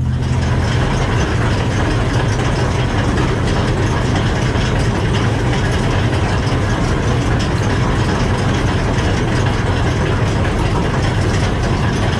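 Don-1500B combine harvester working: the engine runs steadily under a dense mechanical clatter from the threshing and conveying mechanisms. The clatter comes in abruptly at the start.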